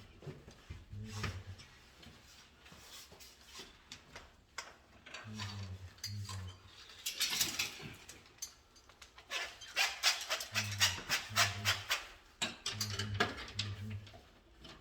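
Clicks, snaps and crackling from hand work on wiring and fittings, busiest in the second half. A low two-note coo-like call repeats in pairs every few seconds.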